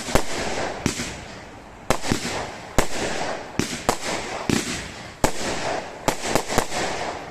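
Fireworks going off in quick succession: about a dozen sharp bangs, some in quick clusters, with crackling between them.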